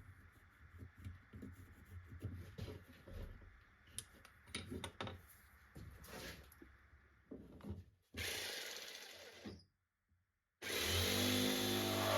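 Faint, irregular tapping and scraping of hand work on wood. Then an electric power tool runs briefly and winds down, and after a short break starts again and runs steadily and loudly.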